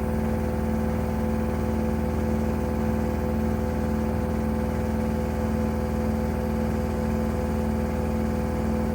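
Gorenje WA72147 washing machine running with a steady motor hum that holds two fixed tones.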